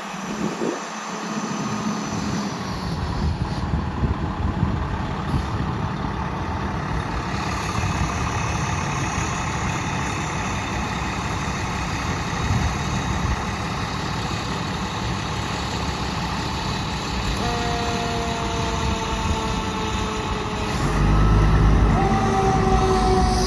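Fire department ladder truck driving by on a call: a diesel engine rumble that builds, then two long air horn blasts near the end, each a two-note chord that falls slightly in pitch.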